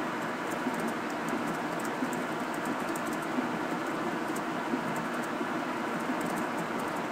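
Steady rushing of hurricane storm surge, surf and overwash water pouring in over the seafront, mixed with wind.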